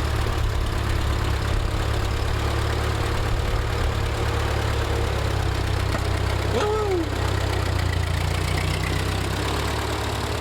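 1948 Ford 8N tractor's four-cylinder flathead engine idling steadily. A short whistle-like glide sounds once, about six and a half seconds in.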